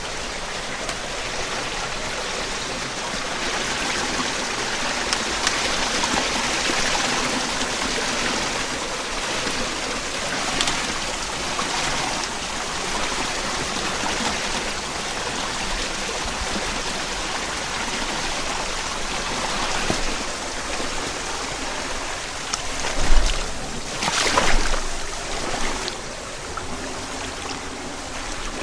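Headwater mountain stream running over rocks, a steady rush of water, with a couple of brief louder bumps about three-quarters of the way through.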